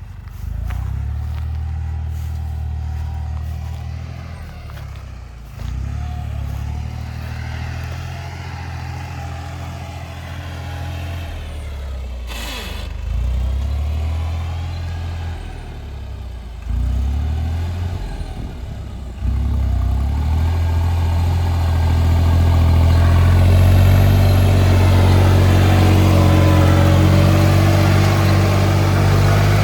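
Tractor engine running steadily. Its note and loudness change abruptly several times, and it is loudest in the last third.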